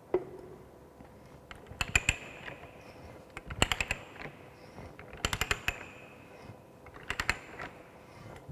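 Ratcheting pipe-threading die stock on galvanized steel pipe: quick runs of metallic clicks with a faint ring as the handle is swung back between quarter-turn cutting strokes, a group about every second and a half.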